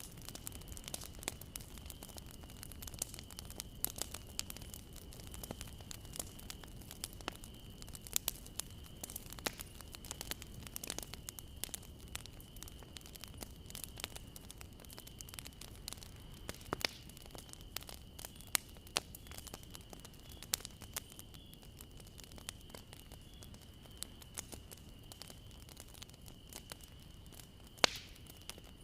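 Bonfire burning, the wood crackling and popping in irregular sharp snaps over a low steady rumble, with one especially loud pop near the end. A faint steady high tone runs underneath.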